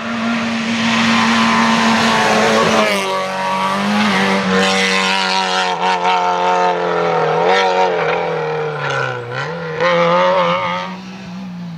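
Historic rally car engine running at high revs, its pitch held level for about three seconds, then rising and falling repeatedly under the throttle, with a few sharp crackles.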